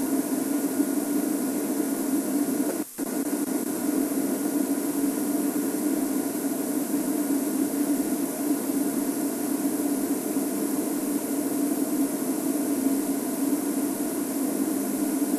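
Steady hiss with a low hum, unchanging and without distinct events, cutting out briefly about three seconds in.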